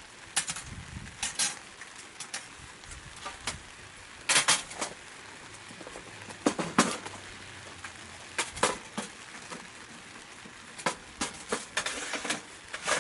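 Wood fire crackling in a secondary-combustion wood stove: irregular sharp pops and cracks over a low steady background, with louder double cracks about four and six and a half seconds in.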